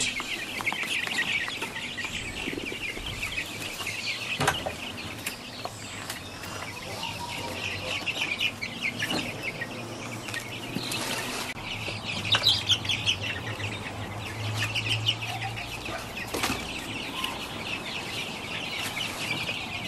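A flock of young chickens clucking and cheeping steadily as they are brought into the hut, with a few brief bursts of wing flapping.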